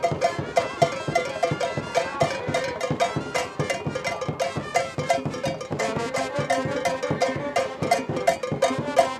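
Cuban conga street band playing: drums and struck metal bells keeping a fast, steady rhythm.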